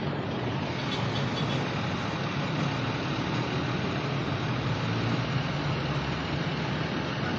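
Slow, near-stopped road traffic: the engines of trucks, jeepneys and cars idling and creeping, a steady low rumble.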